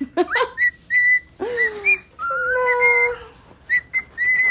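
Pet bird whistling a tune: repeated short high chirps with a few longer held and sliding whistled notes.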